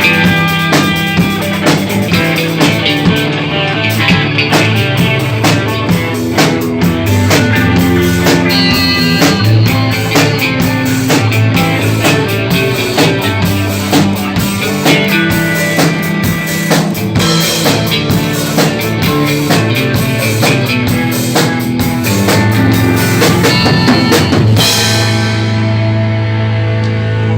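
Instrumental rock band passage: a drum kit keeping a steady beat under electric guitar and bass. Near the end the drums drop out, leaving held chords ringing on.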